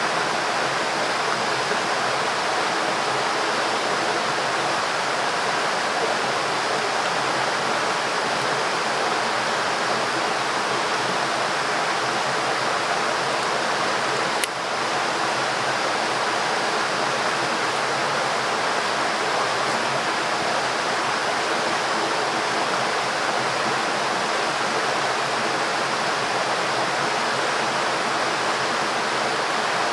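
A river rushing steadily over its bed. About halfway through there is a single brief click.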